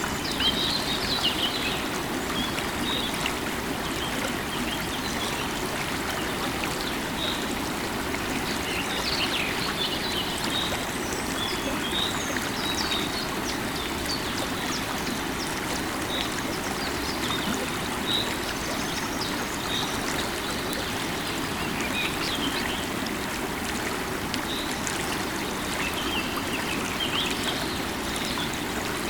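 Running water of a flowing river, a steady rush, with small birds chirping in short calls now and then above it.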